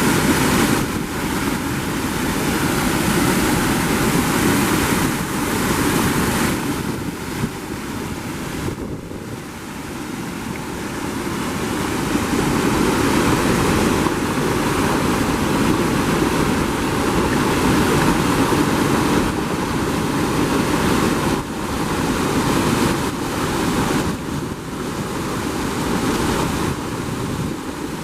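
Steady rushing roar of a waterfall, swelling and easing in level over the seconds, with wind buffeting the microphone.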